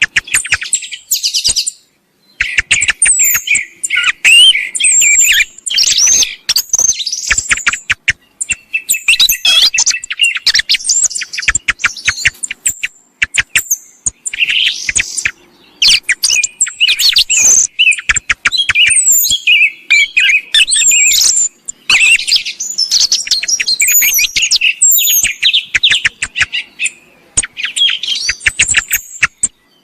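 Song thrush song: bursts of high whistled and clicking phrases in quick succession, broken by short pauses, as used in a hunting lure call.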